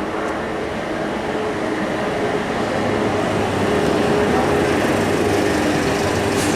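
A train running through the station, growing louder over the first few seconds and then holding steady, with a steady hum under the rumble.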